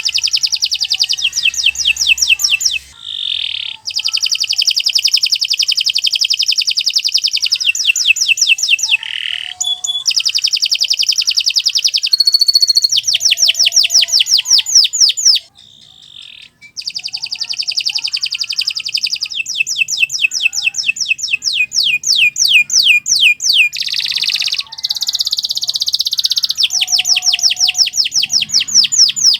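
Domestic canary singing long, fast, high-pitched trills and rolls, phrase after phrase. The song breaks off a few times in short pauses, the longest about halfway through.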